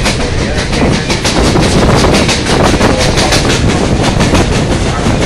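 Excursion train running, its wheels clattering over the rails with a dense stream of clicks, heard from an open-sided car.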